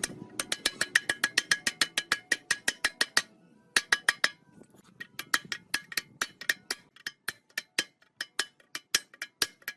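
Quick, even series of light metallic taps, about six a second, each with a short ringing tone, pausing briefly a little past three seconds and growing softer after that.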